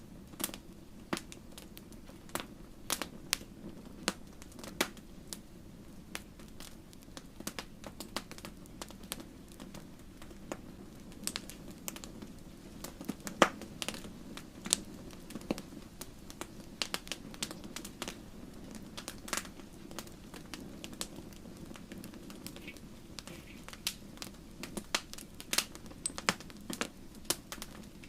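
Wood fire crackling in a fireplace: irregular sharp pops and snaps over a steady low noise of the flames, with one louder pop about halfway through.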